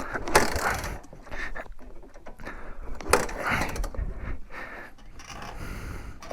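Kick-start attempts on a 1987 Honda Big Red three-wheeler's four-stroke single: two kicks about three seconds apart turn the engine over, but it does not catch. The battery is dead, so it has to be kicked.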